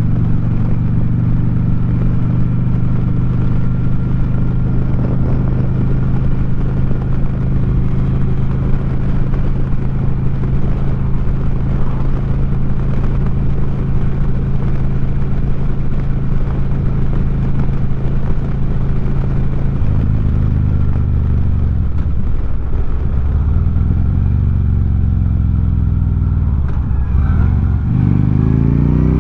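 2009 Harley-Davidson Street Glide's V-twin engine through 4.5-inch Sharkroad exhaust, heard from the rider's seat while cruising at a steady speed. About twenty seconds in, the engine note falls and rises several times, then climbs again near the end as the bike speeds up.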